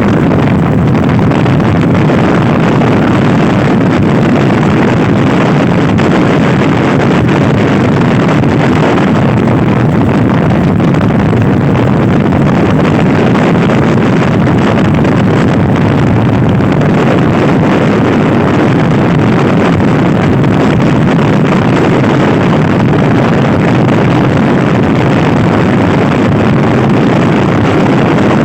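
Loud wind noise buffeting the microphone while riding a Honda Scoopy-i scooter at speed, with the scooter's small single-cylinder engine running underneath.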